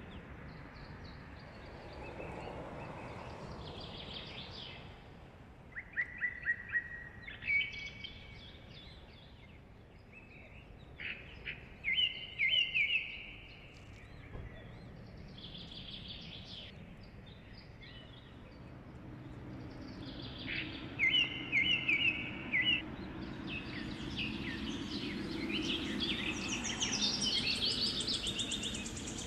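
Small birds singing: repeated short phrases of rapid chirping notes, several birds trading songs. A low rumble rises under them in the second half.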